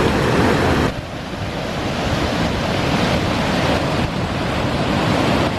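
Loud, steady rush of a fast mountain stream, with wind buffeting the microphone. The sound drops in level about a second in, then slowly builds again.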